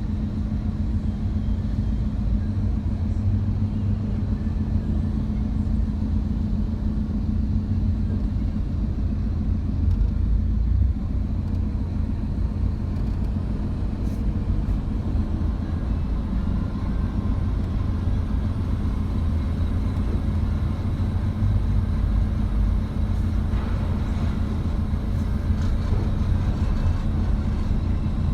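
Busy road traffic with trucks and cars going by: a continuous low engine and tyre rumble with a steady hum under it.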